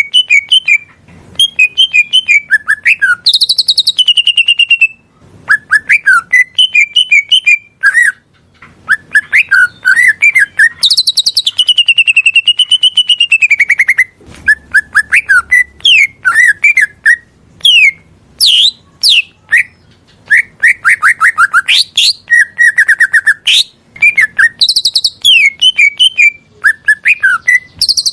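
A cucak ijo (leafbird) singing a rapid, varied song of whistles, chirps and trills in quick-changing phrases. About halfway through comes a long wavering whistle.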